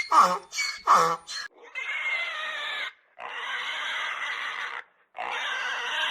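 Two short animal calls falling in pitch in the first second or so, then a pig giving three long, rough calls, each a second or more, with brief pauses between them.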